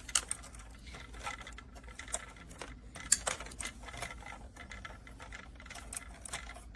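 Plastic toy helicopter being handled, its propeller blades being folded: irregular small plastic clicks and knocks, with a sharper click just after the start and another about three seconds in.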